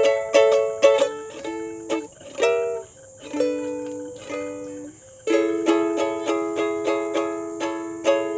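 A solo plucked string instrument playing the closing bars of a song: fast tremolo-strummed chords, a few slower single notes and short chords, then about five seconds in a final chord strummed rapidly and left ringing.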